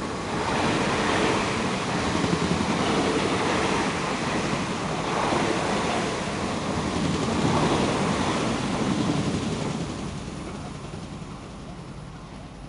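MTR East Rail Line electric commuter train passing close by: a loud, even rush of wheel and rail noise that builds about half a second in, holds for several seconds, then fades as the train draws away.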